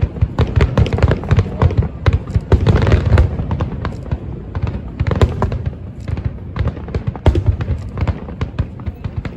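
Aerial fireworks display: a rapid barrage of sharp crackling bangs over deep booming shell bursts, thickest about three seconds in.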